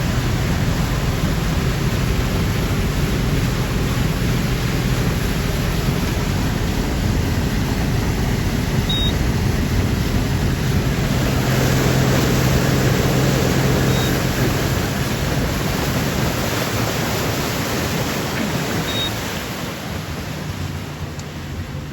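Boat engine running steadily under a loud rush of wind and water, with a low hum beneath the noise. The rush drops off a little near the end.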